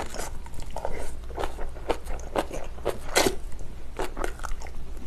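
Close-up crunchy chewing of spicy kimchi: crisp bites and crunches about two a second, irregular.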